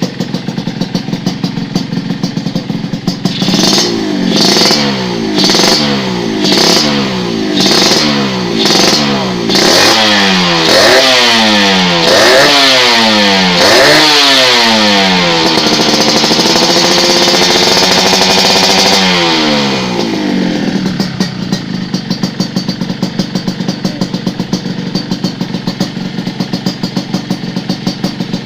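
Motorcycle with an aftermarket exhaust idling, then revved in a series of about seven quick throttle blips, each pitch rising and falling. The revs get longer, the engine is held at high revs for several seconds, then drops back to a steady idle about two-thirds of the way through.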